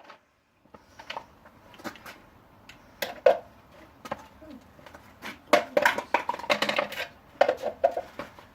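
Scattered knocks and clatter of hard plastic parts from a vacuum cleaner being broken apart, growing into a busier run of clatter about five and a half seconds in.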